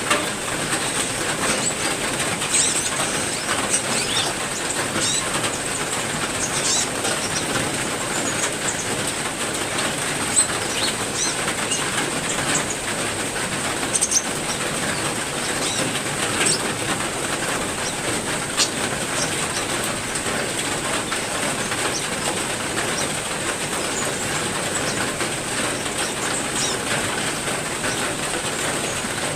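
Steady heavy rain falling, with caged songbirds giving short, scattered chirps over it.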